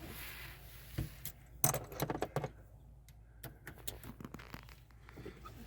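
Scattered sharp metallic clicks and clinks, bunched together in the middle, as a Torx screwdriver works at and takes out small screws.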